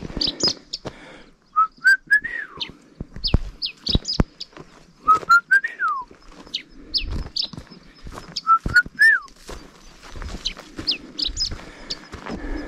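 A songbird singing a repeated whistled phrase about every three to four seconds: a few short notes stepping up, then a note that rises and slides down, with thin high downward-sweeping notes in between. A few dull knocks sound among the song.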